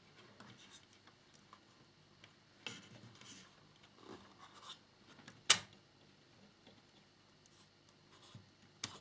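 Small plastic model-kit parts being handled and fitted by hand: light rubbing and scratching with a few short clicks, one sharp click about five and a half seconds in.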